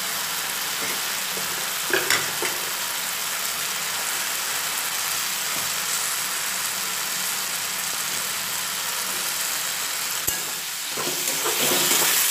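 Spice paste sizzling steadily in mustard oil in a metal kadai as potato chunks are added, with a couple of soft knocks about two seconds in. Near the end a spatula starts stirring the potatoes through the paste and the sizzling grows louder.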